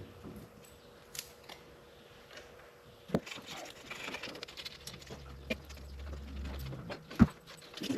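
Razor blade scraping old head-gasket residue off the engine's gasket surface in short, faint strokes, with a couple of sharp clicks about three and seven seconds in.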